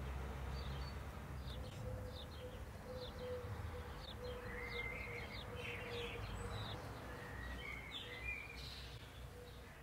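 Small birds chirping, with many quick high chirps and a few short whistles, over a faint steady hum and low rumble.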